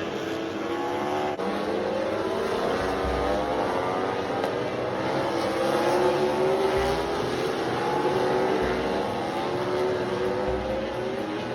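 Several racing motorcycle engines at high revs, their overlapping notes rising and falling in pitch as the bikes race around the circuit.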